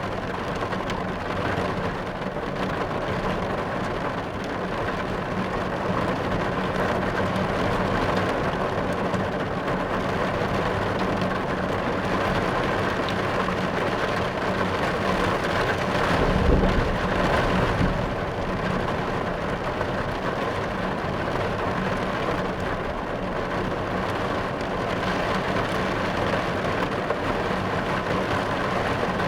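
Rain falling steadily on a car's roof and windows, heard from inside the car. About sixteen seconds in, a low rumble of thunder swells for a couple of seconds.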